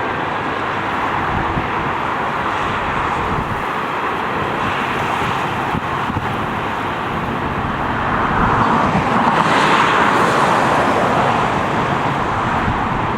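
Steady rushing roar of jet airliner engines, growing louder about eight seconds in and easing off again a few seconds later.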